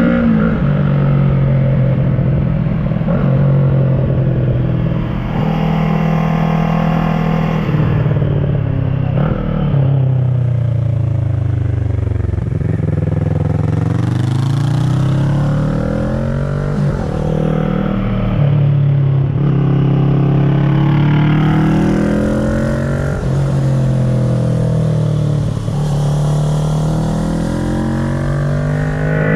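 2010 Kawasaki ER-6n's parallel-twin engine running through an SC Project carbon exhaust, accelerating and backing off again and again while riding a mountain road. The pitch climbs through the revs and drops away several times, with its deepest fall about twelve seconds in before it pulls up again.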